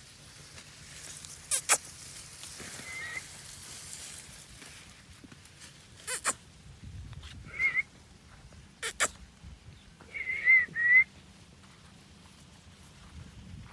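A parrot giving short, wavering, whistle-like calls several times, the loudest two close together about ten seconds in. Sharp double clicks come three times between the calls.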